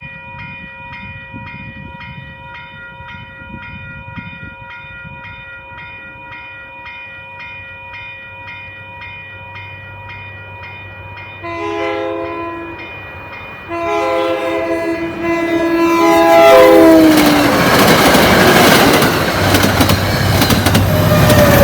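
Grade-crossing warning bell ringing steadily at about two strokes a second. An MBTA commuter train's cab car horn then sounds several chime blasts, the last dropping in pitch as it goes by. The train then passes close with loud rushing wheel noise.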